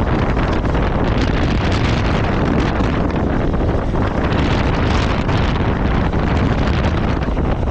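Steady wind rush buffeting the microphone on a moving motorcycle, heaviest in the low end, with road and vehicle noise mixed in.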